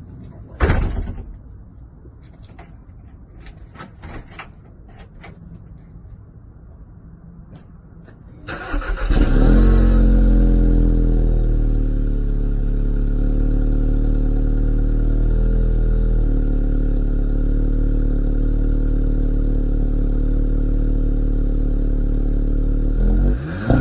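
Volkswagen Polo GTI engine on its stock exhaust: after a knock and a few faint clicks, it starts about eight seconds in, flares briefly, then settles into a steady idle. Its pitch shifts right at the very end.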